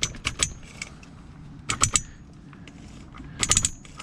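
Three short bursts of metallic clinking and rattling, about a second and a half apart, as metal parts or tools are handled.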